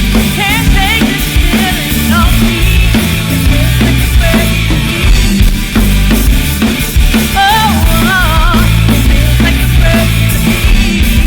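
A rock band playing: a full drum kit with kick and snare keeping a steady beat under bass, and a lead melody line that bends and wavers in pitch.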